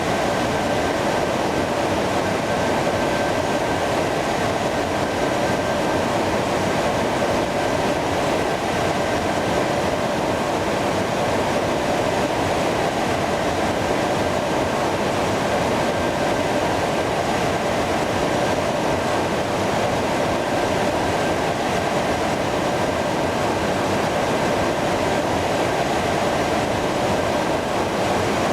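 Jet airliner engines running steadily: a continuous rumble with a thin high whine held at one pitch, neither spooling up nor down.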